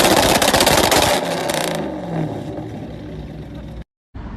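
Loud harsh scraping and clattering vehicle noise that dies away about a second and a half in, leaving quieter road noise with a rising engine note.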